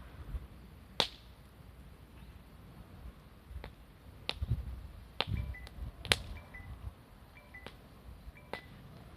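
Wood fire crackling: sharp, irregular pops a second or so apart over a low background rumble. From the middle on, a faint short chirp repeats about once a second.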